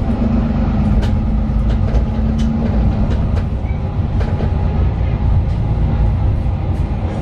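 Inside a Mercedes-Benz Citaro 2 city bus under way: the OM 936 straight-six diesel and ZF Ecolife automatic drivetrain give a steady deep rumble, with frequent sharp rattles and clicks from the cabin fittings. A steady hum under the rumble fades out about two and a half seconds in.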